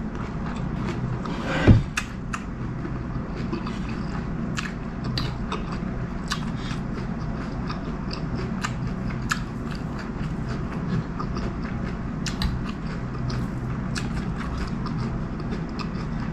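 Close-miked chewing of chicken curry and rice, with many short sharp mouth clicks and one louder low thump a little under two seconds in, over a steady low hum.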